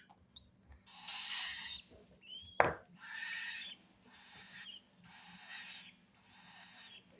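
Baby cockatiel chicks giving repeated raspy, hissing begging calls for food, about five in a row. A sharp knock comes near the middle, just after a short rising chirp.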